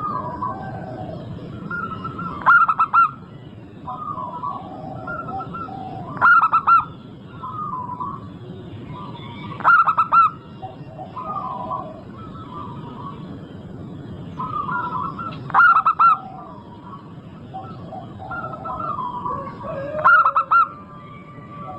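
Zebra dove (perkutut) singing: soft rolling coos broken five times, every few seconds, by a loud, short phrase of quick notes.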